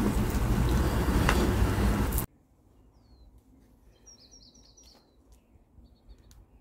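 A loud, steady rushing noise that cuts off suddenly about two seconds in. Then faint outdoor quiet in which a small bird chirps: a few short, high, falling chirps, including a quick run of four.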